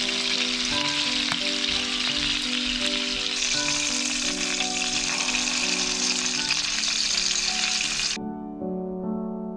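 Fish fillets sizzling steadily in hot oil in a frying pan. The sizzle cuts off suddenly about eight seconds in, leaving soft piano music that plays underneath throughout.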